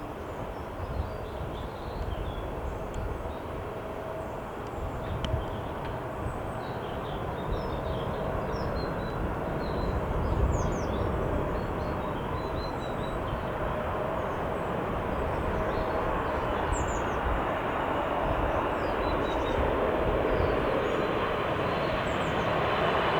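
Boeing 747-8's four GEnx jet engines heard at a distance, a steady rumble and whine growing slowly louder as the jet approaches.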